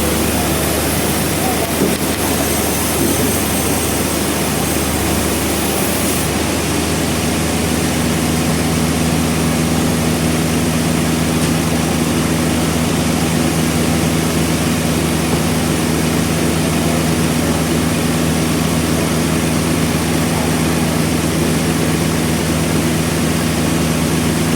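Sawmill machinery running with a loud, continuous mechanical drone, as a log is cut. About six seconds in the high hiss eases and a steadier low hum settles in.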